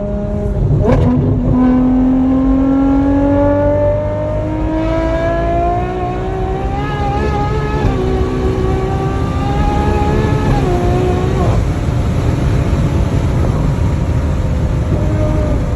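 Ferrari 812 GTS's naturally aspirated V12 engine accelerating: a sharp rev about a second in, then a long, steady climb in pitch with a brief wobble at about eight seconds. The pitch drops away sharply at about eleven and a half seconds, and the engine runs on at lower, steady revs.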